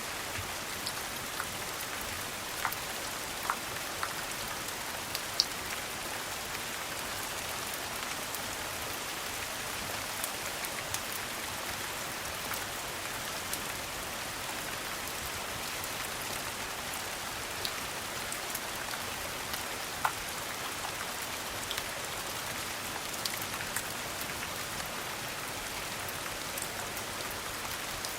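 Steady rain falling, mixed with occasional sharp pops and crackles from a wood fire in a fireplace.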